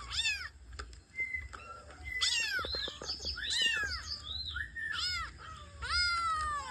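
Cats meowing: about ten high-pitched meows in quick succession, each rising then falling in pitch, some overlapping.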